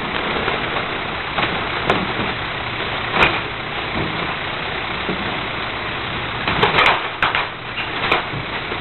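Heil 5000 rear-loader recycling truck idling steadily, with sharp clanks and knocks at irregular intervals, the loudest bunched together about three-quarters of the way through.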